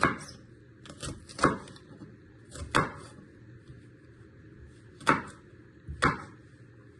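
Kitchen knife chopping a bell pepper into small pieces on a chopping board: about six separate strikes, unevenly spaced.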